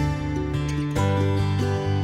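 Background music: acoustic guitar, plucked and strummed, with notes changing about every half second.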